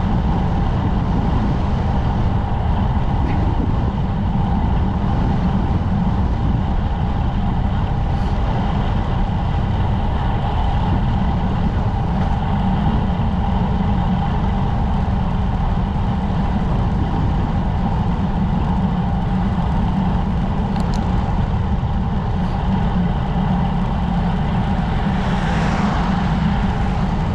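Steady wind rush buffeting the microphone of a camera on a moving road bicycle, with the low rumble of tyres on the road.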